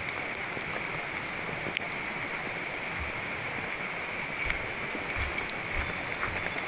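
Steady rain with scattered drop ticks, blended with the rushing of a forest river, under a steady high hum.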